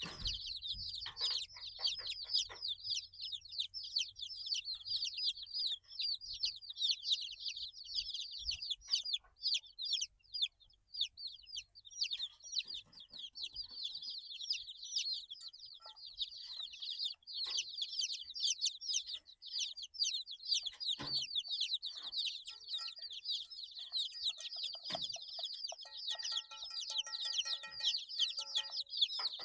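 A brood of 8-day-old chicks peeping continuously, many high, quick chirps overlapping. There are a few soft knocks, and a lower, held tone lasts a few seconds near the end.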